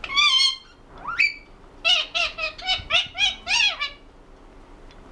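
Indian ringneck parakeet vocalizing: a harsh pitched call, a short rising call, then a quick run of about seven short notes, roughly three a second.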